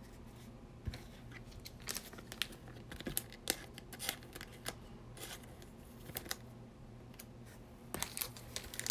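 Trading cards being handled and shuffled through by hand: soft scattered clicks, snaps and rustles of card stock, with a few sharper ticks near the end.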